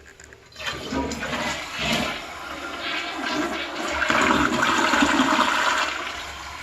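Toilet flushing: water rushing through the bowl, strongest about four to six seconds in, then easing off.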